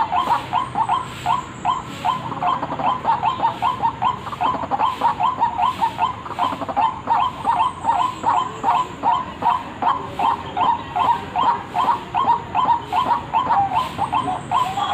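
White-breasted waterhen calling: short notes repeated several times a second in one long unbroken run.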